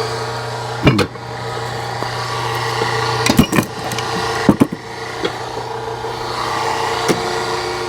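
Small engine of a firewood-splitting machine running steadily, with several sharp knocks and cracks: about one second in, a cluster around three and a half and four and a half seconds, and one near seven seconds.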